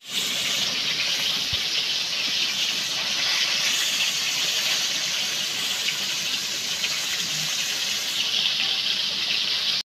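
Small fish frying in shallow oil, a steady loud sizzle, with light scrapes of a spatula turning them in the pan.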